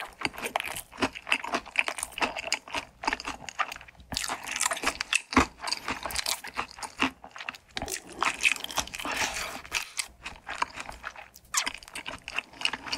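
Close-miked crunching and chewing of crispy fried food: a dense run of crisp crackling bites and chews, broken by a few short pauses.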